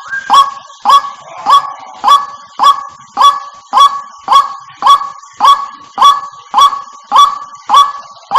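White-breasted waterhen calling: one loud note repeated at an even pace, just under two a second, each note sliding quickly up at its start and then held briefly.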